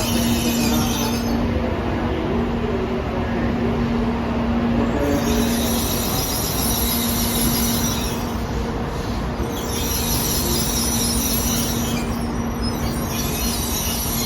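Tokaido Shinkansen train running: a steady rumble with a constant low hum, and a high-pitched whine that comes and goes every few seconds.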